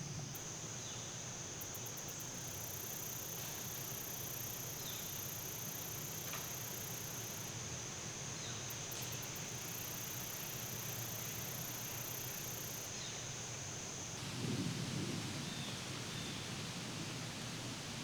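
Insects calling in a steady high buzz, with a still higher trill that starts and stops twice, a few short bird chirps, and a brief low rumble about three quarters of the way through.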